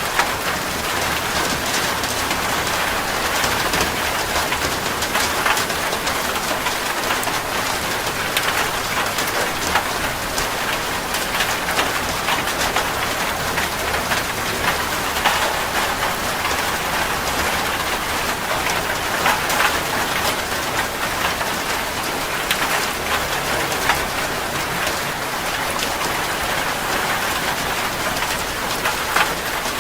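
Heavy rain falling steadily on a metal roof, a dense even patter with scattered sharper drop strikes.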